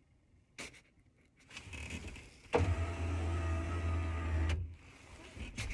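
A vehicle's electric power window motor runs with a steady hum for about two seconds, starting and stopping abruptly. A single click comes shortly before it.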